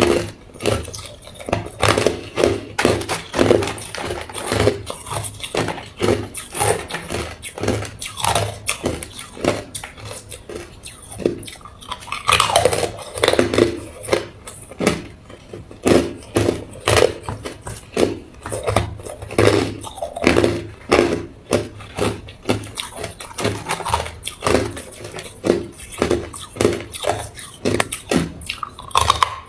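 Hard ice cubes being bitten and chewed: a continuous run of sharp cracks and crunches, with louder bites about once a second.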